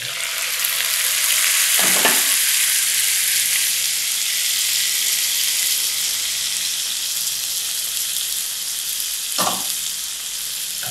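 Chopped tomatoes dropped into a pan of onions frying in butter: the sizzle jumps up suddenly as they hit the hot fat and then runs on steadily. Two short knocks, about two seconds in and near the end.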